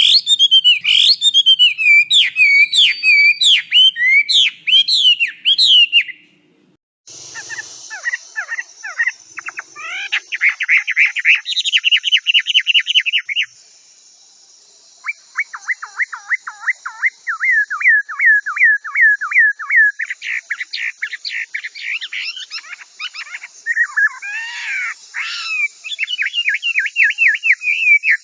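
Chinese hwamei singing a loud, varied song of repeated whistled notes that rise and fall, then fast runs of rapid repeated notes. The song breaks off about six seconds in and again briefly about halfway through before resuming.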